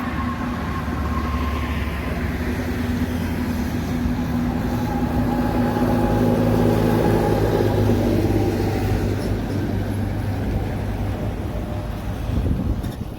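Heavy truck's engine running steadily as it drives past, growing louder to a peak about seven or eight seconds in and then easing off.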